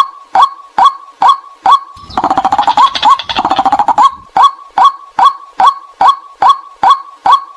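White-breasted waterhen calling: a steady string of short, sharp 'kwak' notes, a little over two a second. About two seconds in, a denser, harsher run of calls breaks in for roughly two seconds before the even rhythm resumes.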